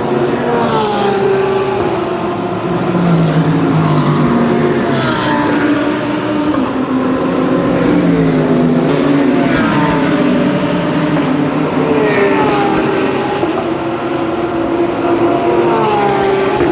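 Race cars passing one after another on a circuit, their engines sweeping down in pitch as each goes by, with several engines overlapping throughout.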